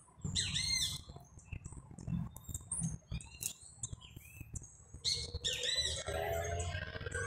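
Small birds chirping: many short, high arched calls in quick runs, busiest in the first second and again from about five seconds in, over a low rumble.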